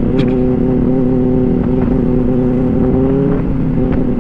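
Benelli 600i's inline-four engine running at a steady, even speed while cruising, over wind rush on the microphone.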